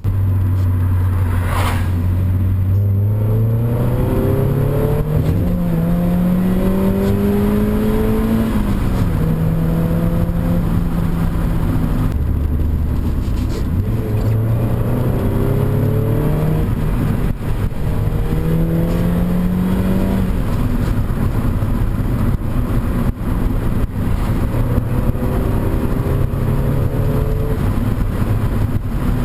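Mazda MX-5's 1.8 four-cylinder engine through a big-bore IL Motorsports cat-back exhaust, heard from inside the cabin. The engine note climbs steadily over several seconds, drops back and climbs again, repeatedly. There is a single click about two seconds in.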